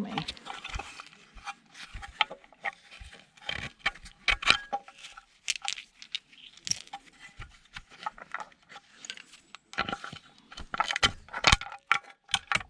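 Small metal screws and parts clinking and rattling as they are taken out and handled, in a run of irregular sharp clicks and taps, busiest near the middle and again near the end.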